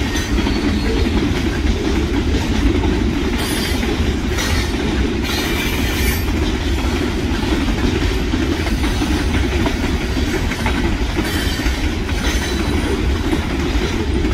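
Freight train cars rolling steadily past: a continuous low rumble of wheels on rail, with short bursts of high-pitched wheel noise several times.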